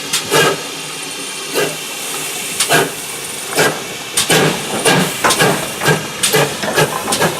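GWR 57xx pannier tank steam locomotive pulling away, its exhaust beats slow and spaced at first, then quickening, over a steady hiss of steam.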